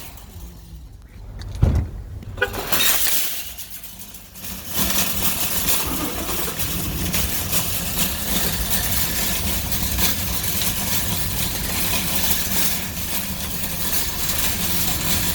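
A single heavy thump about one and a half seconds in, then from about five seconds a motor starts up and runs steadily with a low hum.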